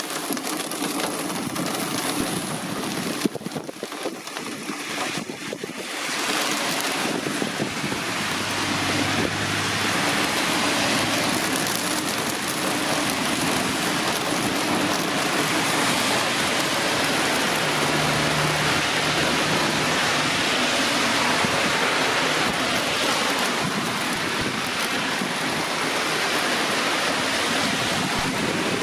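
Heavy thunderstorm rain pouring down in a dense, steady hiss that grows heavier about six seconds in.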